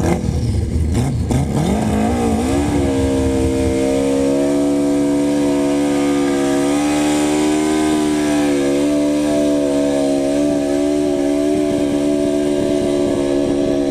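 A racing engine revs up over the first few seconds and is then held at high, nearly steady revs for about ten seconds, wavering slightly, before dropping away at the very end.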